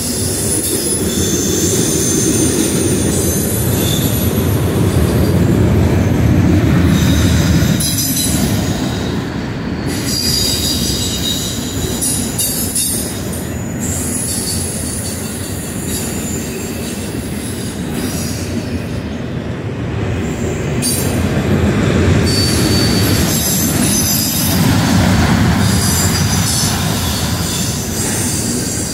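Train rolling past with a steady rumble of wheels on rail, and high-pitched wheel squeal that comes and goes.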